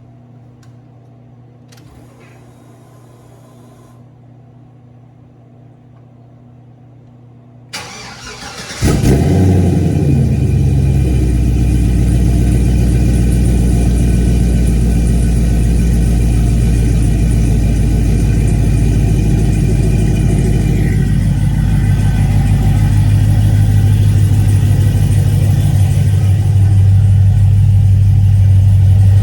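2011 Cadillac CTS-V's supercharged 6.2-litre V8 cranked by the starter about eight seconds in and catching within a second, then idling loudly and steadily through its new 3-inch exhaust with a single Flowmaster muffler.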